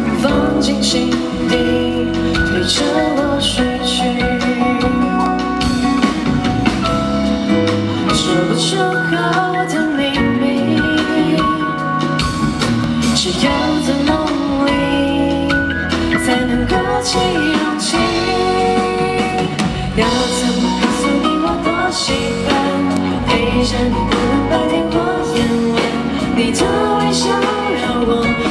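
Live band playing a Mandarin pop ballad: a female lead vocal over guitar and a drum kit.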